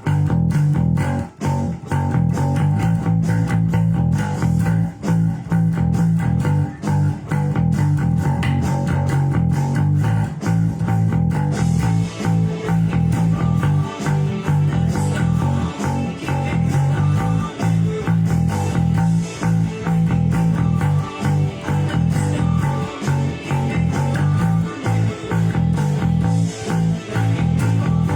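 Electric bass guitar playing a steady, rhythmic rock bassline along with a rock recording that has electric guitar.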